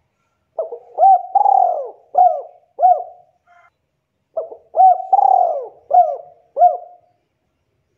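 Spotted dove cooing: two phrases of several short, looping coos each, with a pause of about a second between them.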